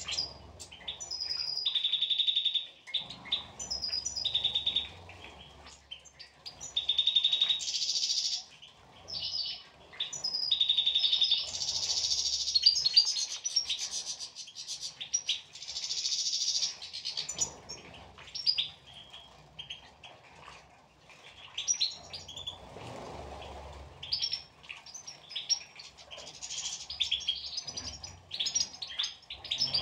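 European goldfinches twittering and singing: quick high chirps and trills, coming and going with short pauses.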